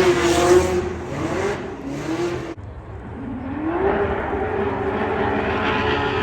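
Formula Drift car engines running hard, the pitch swinging up and down with throttle. The sound cuts off abruptly about two and a half seconds in, then another engine note climbs and holds at high revs.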